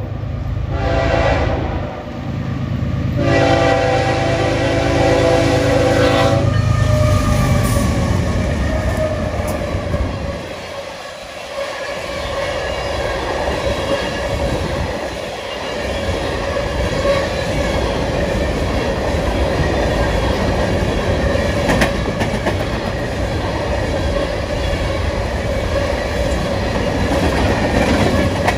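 Air horn of the lead BNSF diesel locomotive sounding for a grade crossing: a short blast, then a long one of about three seconds. Then the locomotives pass and a long string of empty covered hopper cars rolls by with steady wheel noise and wheels clicking over the rail joints.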